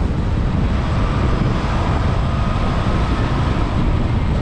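Strong wind buffeting the microphone of a rider moving fast on a Sur-Ron X electric dirt bike: a loud, steady, deep rumble, with a faint steady whine in it midway.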